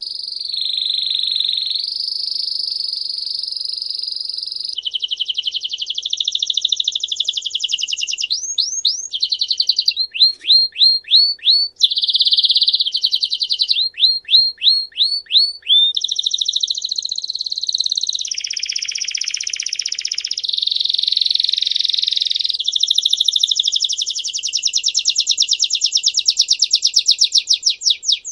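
A songbird singing a continuous, loud song of rapid trills and rolls. Each trill is held for a second or a few seconds before switching to another, mixed with runs of quick repeated sweeping notes.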